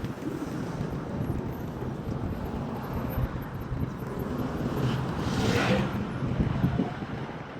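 Street traffic on a city road, with a vehicle passing about five seconds in.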